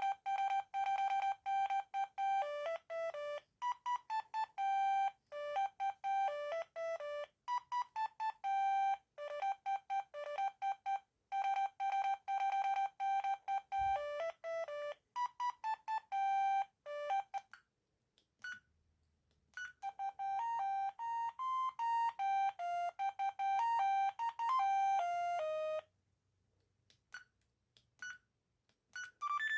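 Amstrad S288 mobile phone playing its built-in ringtones through its small speaker: simple electronic melodies of beeping notes, one note at a time. One tune stops about 17 seconds in, a second tune plays from about 20 to 26 seconds, and short keypad beeps follow near the end.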